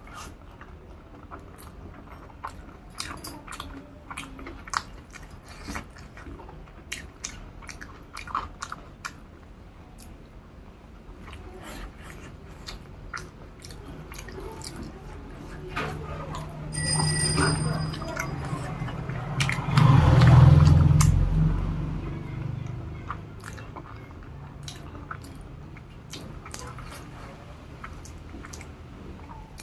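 Close-up eating sounds: wet chewing and small mouth clicks and smacks as a mouthful of rice and fish curry is eaten. About two-thirds of the way through, a louder low rumble swells up and fades away.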